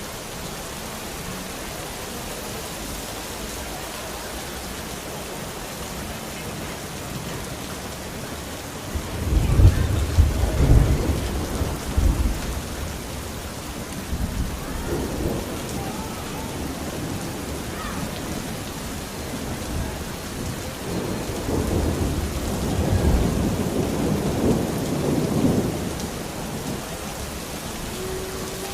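Steady rain with thunder: a deep rumble rolls in about nine seconds in and is loudest over the next few seconds, and a second, longer rumble swells later.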